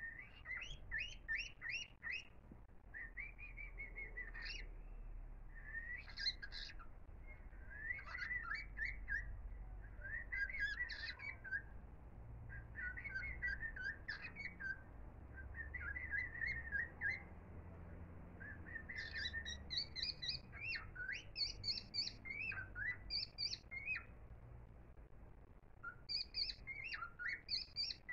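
Small songbird chirping and twittering in quick repeated phrases with brief pauses between them.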